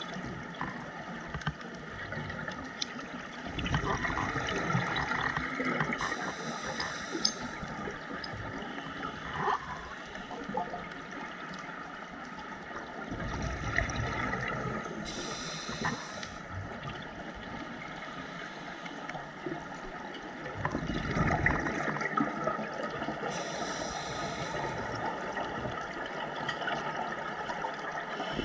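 Scuba regulator breathing heard underwater: exhaled bubbles gurgle in bursts about every eight to nine seconds, with a short hiss near the end of each burst.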